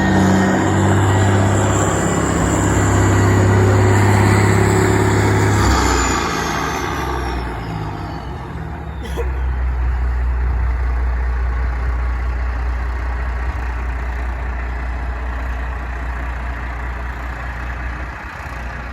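Kenworth dump truck's straight-piped diesel engine running loud, then dropping off about six seconds in and running lower and steadier for the rest.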